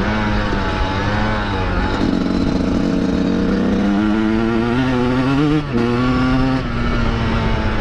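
Two-stroke dirt bike engine running under way, the rider's own machine heard close up. Its pitch climbs steadily as it revs up about halfway through, breaks off briefly, then holds higher before easing back near the end.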